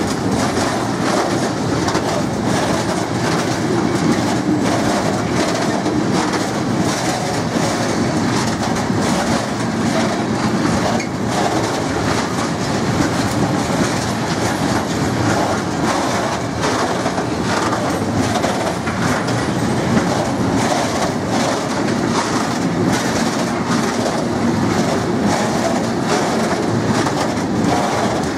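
Long freight train of high-sided open steel wagons rolling past close by: a steady rumble of steel wheels on rail with repeated clickety-clack as the bogies cross the rail joints.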